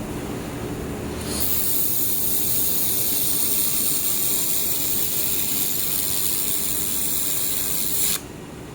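Handheld air-cooled laser welder running a bead: a steady high hiss starts about a second in and cuts off suddenly near the end, over the steady low hum of the welding machine.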